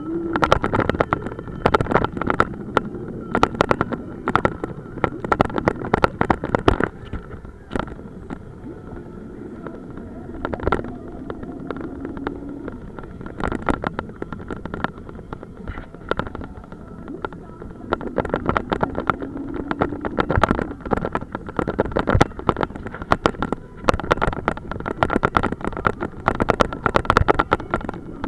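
Police motorcycle's engine running under way, its pitch climbing in several long pulls as it accelerates, with heavy wind buffeting on the microphone.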